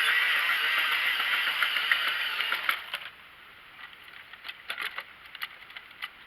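Toy train's electric motor and gears whirring with a wavering pitch as it runs on the track. The whir drops away about three seconds in, leaving scattered small clicks and rattles.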